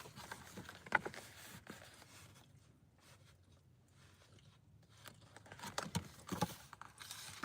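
Mostly quiet, with a few soft, short handling knocks and rustles: one about a second in and a couple more near the end.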